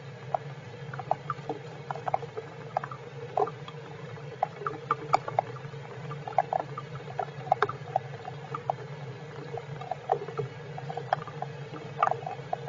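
Heavy rain: raindrops pattering as irregular, scattered taps over a steady low hum.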